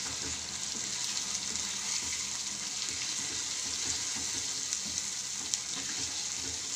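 Chicken masala sizzling steadily in a non-stick kadai over the flame, while a spatula stirs it with soft, irregular scrapes against the pan.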